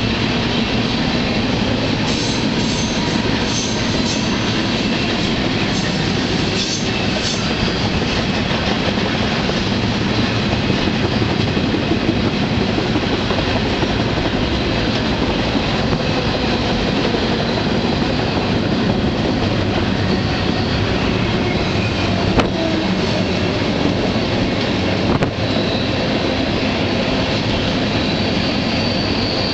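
Freight train heard from aboard a moving car: steady, loud rumble and rattle of steel wheels on the rails. A thin high wheel squeal rises near the end, and two sharp clanks come a few seconds apart late on.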